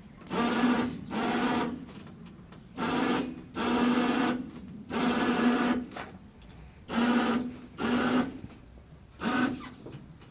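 Electric power winch in a pickup bed run in short bursts, about eight times, each run under about a second long with a steady motor hum, inching an ultralight trike up into the bed.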